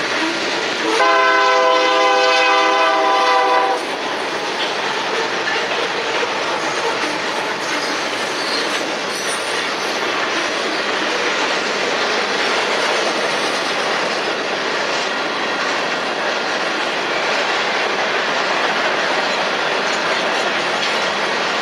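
Loaded freight cars, tank cars and then covered hoppers, rolling steadily past a grade crossing. About a second in, a diesel locomotive horn sounds one loud held chord for nearly three seconds, then stops.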